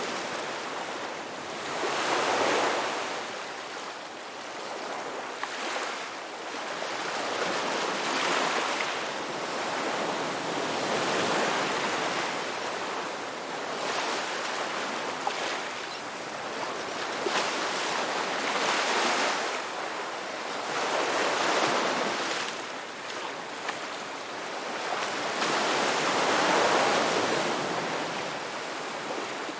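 Ocean waves washing ashore in slow surges, swelling and easing every few seconds.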